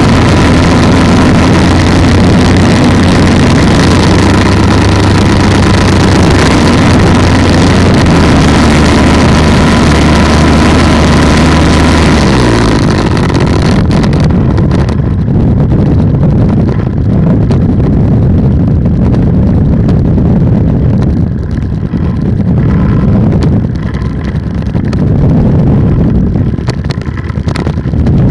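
Polini 190 single-cylinder two-stroke engine of an ultralight trike running at steady power, then throttled back about halfway through, its pitch dropping. After that the engine sound is lower and uneven, with wind rushing on the microphone.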